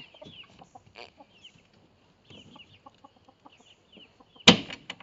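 A flock of chickens softly clucking and chirping, with one sharp knock about four and a half seconds in.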